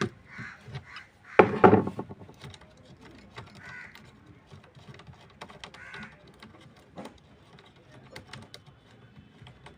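Small clicks and knocks of tools and parts being handled while a volume potentiometer is undone from an amplifier, with one louder clatter about one and a half seconds in.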